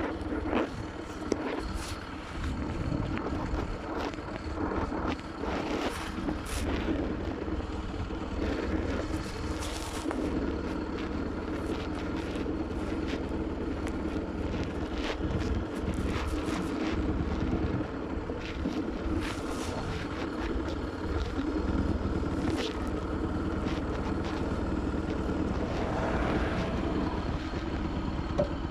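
Bajaj Pulsar NS200's single-cylinder engine running steadily while the motorcycle is ridden, with wind noise on the microphone and scattered short clicks and knocks.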